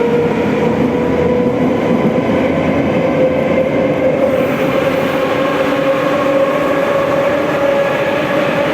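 Moscow metro train running over the rails, with a steady rumble and a motor whine that slowly rises in pitch as the train gathers speed.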